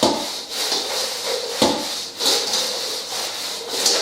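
Seasoned chicken wings being tossed in a bowl, rubbing and scraping against its sides. Sharp knocks come at the start and again about a second and a half in.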